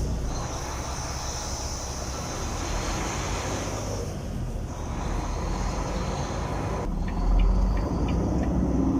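Semi truck's diesel engine running, heard from inside the cab as the rig moves off, with a steady hiss over a low rumble that swells briefly about seven seconds in.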